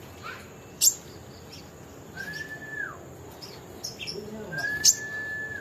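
Small songbird calling: quick sharp chirps, two very sharp high calls about a second in and near the end, and two held whistled notes, the first falling off at its end.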